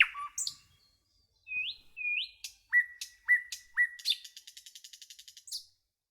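Birds calling. First come short whistles that slide upward, then three calls about half a second apart that each sweep up and hold a steady note. Last comes a fast chattering trill of about ten notes a second, which stops abruptly near the end.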